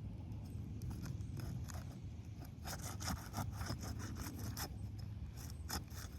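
Gritty scraping and crackling of asphalt roof shingles being lifted and handled, in a quick run of short scratches that thickens about halfway through, over a steady low rumble.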